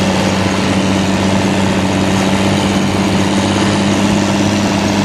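Heavy military vehicle's diesel engine running steadily at constant speed: an even, unchanging drone.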